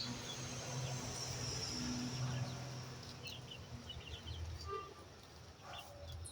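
Quiet chicken-house background: a steady high drone and a low hum, with a few soft, short chirps from 7-week-old layer chickens about three to four seconds in.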